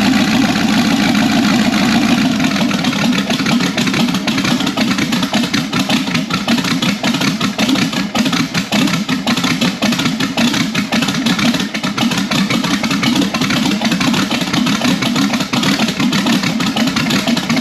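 Twin-turbo, carbureted small-block 350 V8 of an El Camino idling loudly and steadily, its exhaust pulsing rapidly.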